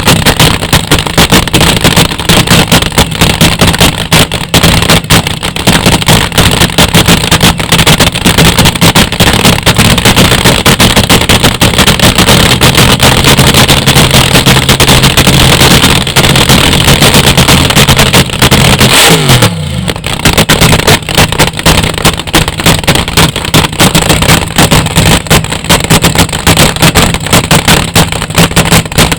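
Open-exhaust drag-racing engine running very loud and rough, held at a fast idle. About two-thirds of the way through, the pitch steps up, then drops off sharply with a brief dip before the engine carries on.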